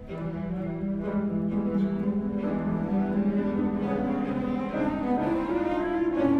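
Contemporary chamber music for solo bassoon and small ensemble: several overlapping sustained low notes, with bowed strings prominent. The music swells in about the first second and then holds at a steady level while the upper lines shift.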